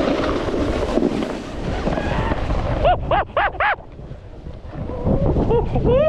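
Snowboard sliding over snow with wind rushing across the microphone; about halfway through, four short pitched vocal sounds come in quick succession, and a couple more near the end.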